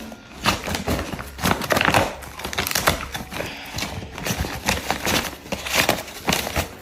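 Tissue paper and a paper gift bag crinkling and rustling in irregular bursts as a dog noses and paws through it.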